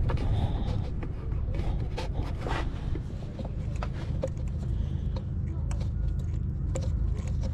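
Scattered metallic clicks and light scrapes of hand tools at work on the van's engine fan and clutch, over a steady low rumble of wind on the microphone.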